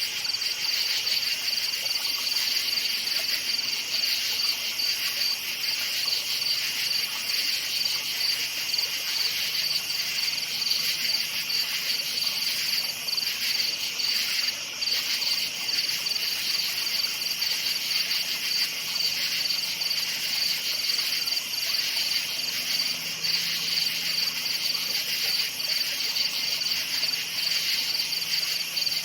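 Crickets chirping in a steady, continuous night chorus, a high-pitched, finely pulsing trill that never lets up.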